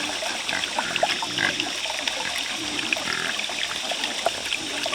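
Pigs grunting and squealing in short, scattered calls, mixed with small clicks and knocks.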